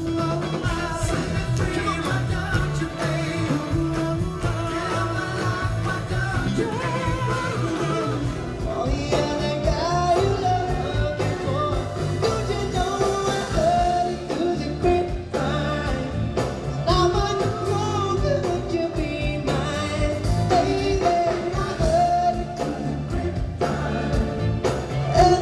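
Male vocal group singing a Motown-style song with a backing band.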